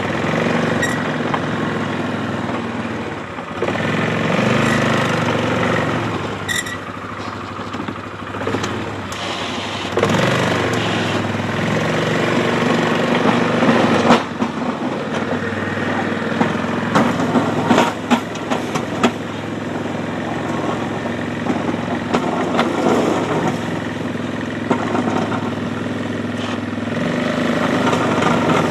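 ATV engine running as it pushes a snow plow through slush, its speed rising and falling several times, with a few sharp knocks a little past the middle.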